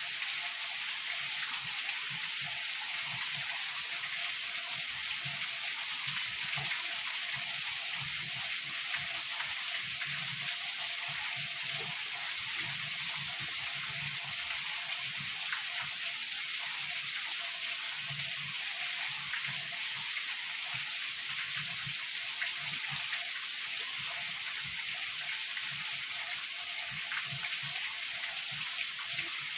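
Heavy rain falling steadily: an even hiss with the patter of many individual drops.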